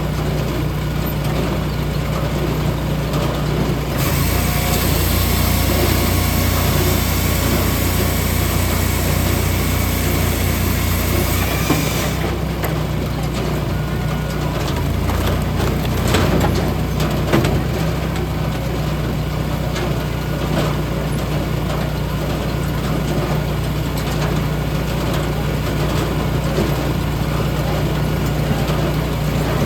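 Engine of a hydraulic log splitter running steadily. It gets louder and harsher for several seconds about four seconds in, as it comes under load. A few sharp knocks follow near the middle.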